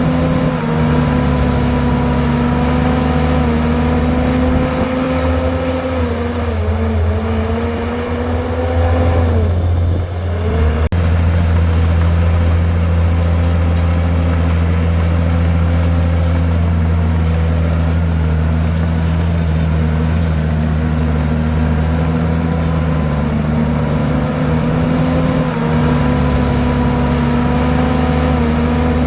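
Diesel engine of a Komatsu bulldozer running steadily under load. Its pitch sags between about six and ten seconds in as the engine takes load, and there is an abrupt break near eleven seconds before it runs on steadily.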